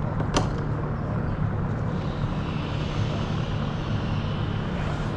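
Steady low mechanical drone with outdoor noise, and a single sharp click about half a second in.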